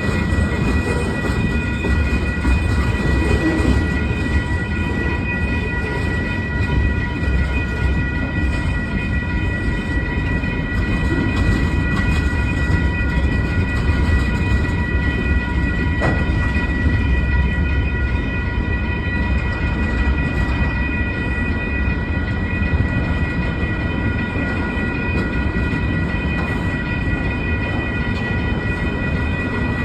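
Long CSX freight train rolling past, a steady heavy rumble from its railcars, with steady high-pitched ringing tones over it.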